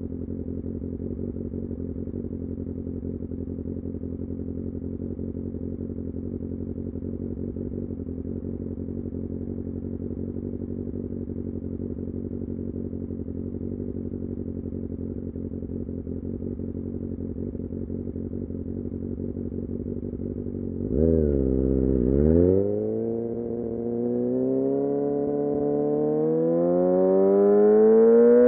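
Kawasaki Ninja ZX-6R inline-four engine idling steadily for about twenty seconds. Then it is blipped twice and pulls away, the engine pitch climbing steadily as it accelerates.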